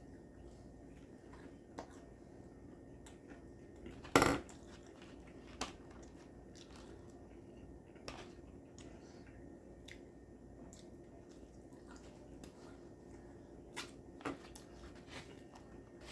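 Quiet kitchen handling sounds: scattered light clicks and taps of dishes and utensils while wraps are being assembled, with one louder knock about four seconds in and another near the end.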